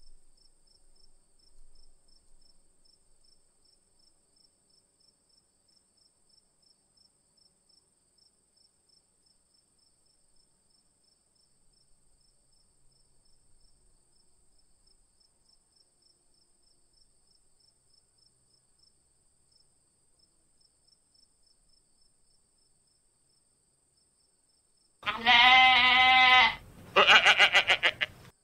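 A goat bleating twice, loud and quavering, near the end. Before that, only a faint, steady insect chirping ticks over near-silence.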